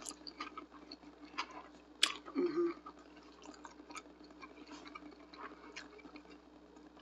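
Close-miked chewing of a stuffed pizza burrito: soft wet mouth clicks and smacks, with a sharper click about two seconds in. Just after it comes a short voiced murmur with the mouth full.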